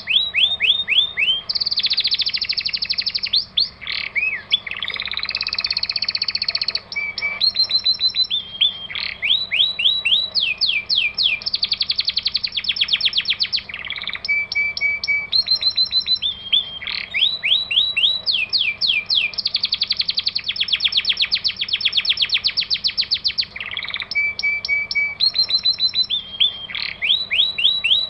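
Songbird 'masteran' training recording: continuous fast chattering trills of rapidly repeated notes, mixed with quick down-slurred whistles and short held notes, all without a break.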